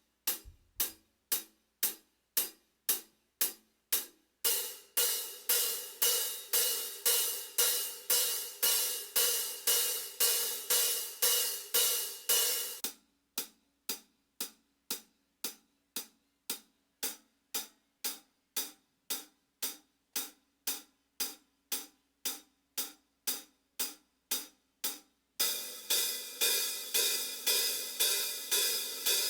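Zildjian hi-hat cymbals struck in a steady pulse of about two hits a second. The hits alternate between short, tight chicks and longer, ringing, washy strokes: tight at first, washy from about four seconds in, tight again midway, then washy again near the end.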